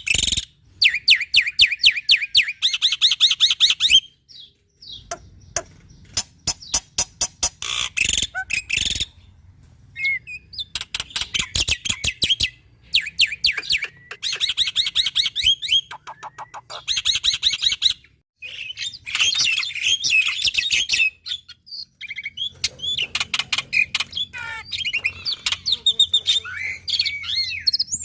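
Black-winged starling (jalak putih) singing vigorously: rapid runs of dry, sharp clicking notes alternating with bursts of fast, high whistled trills and chatter, with a few short pauses.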